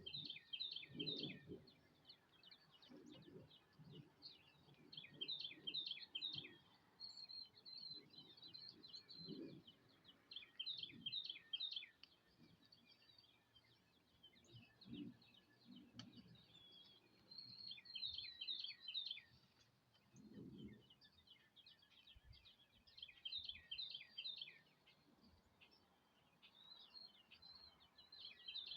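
A songbird singing a short phrase of rapid down-slurred notes, repeated every two to three seconds, with faint low rumbles between the phrases.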